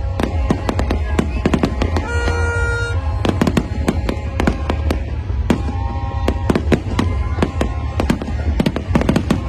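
Large aerial fireworks display: a dense run of sharp bangs and crackles, several a second, over a continuous low rumble.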